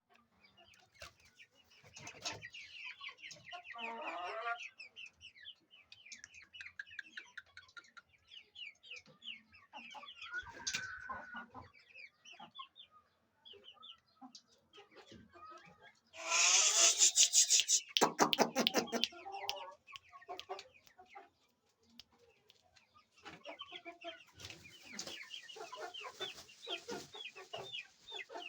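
Heera Aseel chickens clucking with many short, high, quick calls, and one much louder call lasting about three seconds from around sixteen seconds in.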